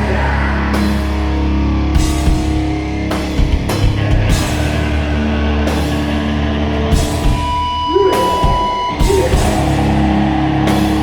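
Live heavy, distorted band music from a grindcore band: a low droning guitar and bass with drums and repeated cymbal crashes. A high held tone, like feedback, rings for about a second around eight seconds in.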